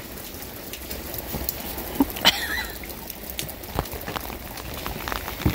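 Heavy rain falling steadily, with scattered sharper drops and taps. A brief high squeak comes a little past two seconds in.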